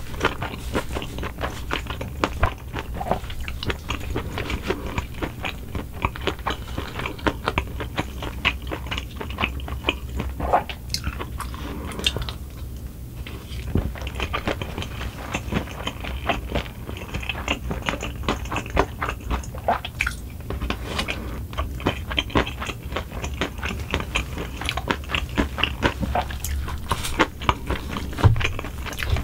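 Close-miked chewing of spoonfuls of rice with stir-fried pork cartilage, a steady run of wet mouth sounds and crisp crunches from the cartilage, with a brief lull a little before halfway. A wooden spoon scoops in the bowl near the start and near the end.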